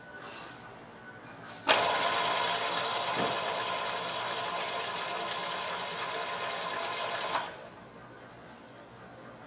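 An electric motor switches on suddenly, runs steadily with a whine for about six seconds, then cuts off abruptly.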